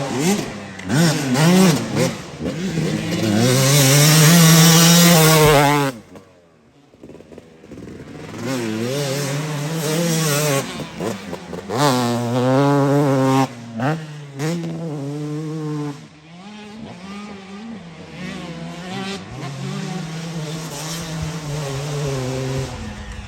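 Dirt bike engine revving, its pitch rising and falling over and over, loudest in the first few seconds and dropping off sharply about six seconds in before picking up again.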